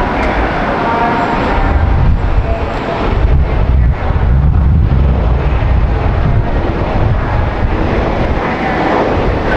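Jet airliner's engines rumbling as it passes close by. The deep rumble swells about two seconds in, holds, and fades near the end.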